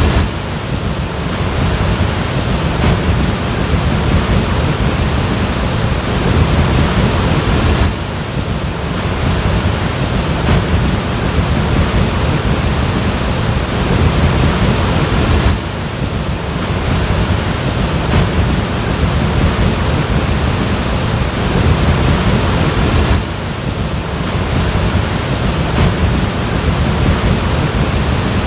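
Floodwater rushing, a loud continuous roar of water with a heavy low rumble, with wind on the microphone. The sound dips abruptly and changes character about every eight seconds.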